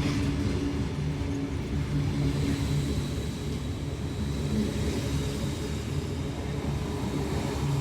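Tangara electric multiple unit (sets T101 and T102) running through the station: a steady low rumble with a low motor hum.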